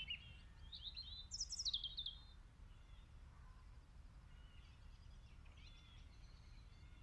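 Small birds chirping faintly: a quick run of short, sweeping high chirps in the first two seconds, then only occasional soft chirps over a low steady background.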